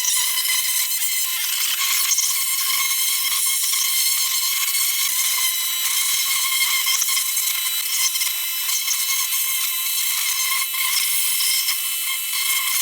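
Pressure washer jet spraying caked grease off a truck's underside: a steady hiss with a faint whine, without letup.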